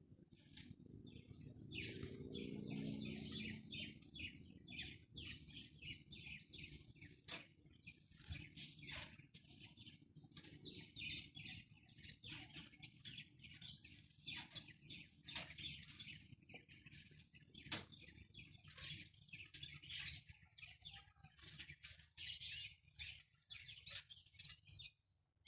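A flock of parrots chirping and squawking in quick, overlapping short calls, over a faint low steady rumble.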